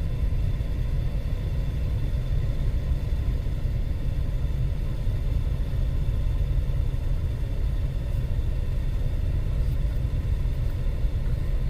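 2010 Nissan Pathfinder's 4.0-litre V6 idling, a steady low rumble with no change in speed.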